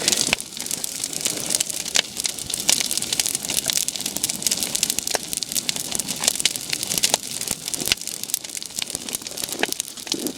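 Large wood bonfire crackling, with frequent irregular sharp pops over a steady hiss.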